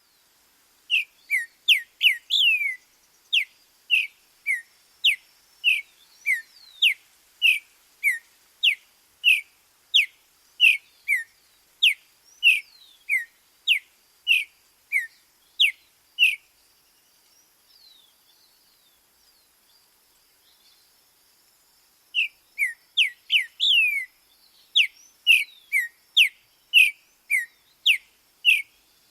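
A songbird repeating clear, down-slurred whistled notes, alternating higher and lower, about two a second. It falls silent for several seconds midway, then resumes.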